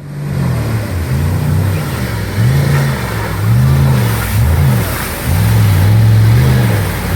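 Off-road 4x4's engine revving up and down over and over, the pitch rising and falling in quick surges.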